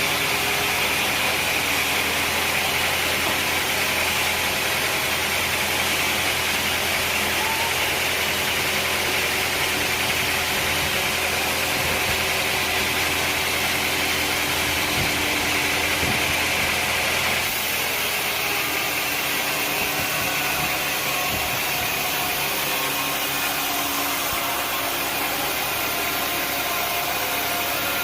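Sawmill machinery running steadily under engine power, an even mechanical drone with hiss; the sound shifts and drops slightly about two-thirds of the way through.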